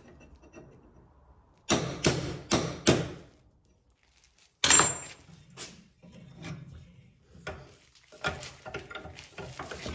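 Metal machine parts being knocked into place: four quick knocks about two seconds in, then a single loud strike that rings briefly. Lighter clicks and clatter of parts being handled follow.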